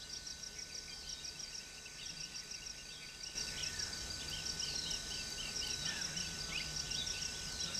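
Tropical forest ambience: an insect trilling in steady, even pulses, with birds chirping, one calling in a quick run of short repeated notes near the middle.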